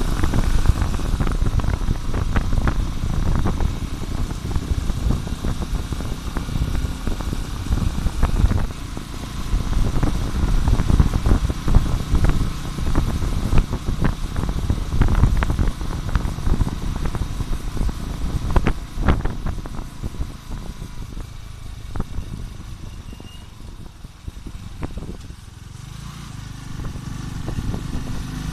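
Motorcycle running on the move, a rough, uneven low rumble with wind buffeting the microphone. Near the end it settles into a steadier, lower engine hum.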